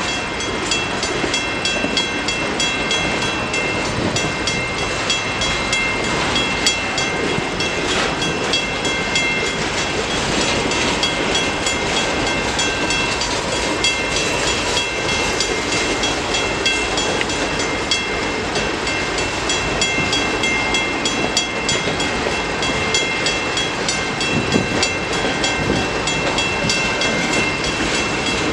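Freight cars of a CN manifest train rolling past, a steady rumble and clatter of steel wheels on the rails, with a thin high-pitched whine from the wheels.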